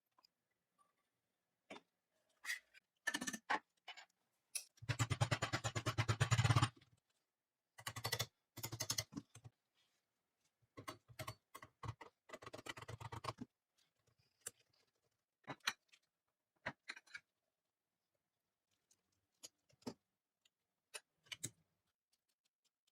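Workshop sounds of restoring metal gun parts: scattered clicks and taps of parts being handled, broken by short buzzing runs of a small power tool, the longest about two seconds and starting about five seconds in.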